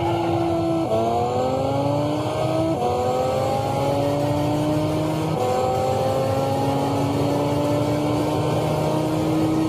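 A high-performance car's engine at full throttle, accelerating through the gears. The pitch climbs in each gear and drops at each upshift, about one, three and five and a half seconds in and again at the end, with each gear lasting longer than the one before.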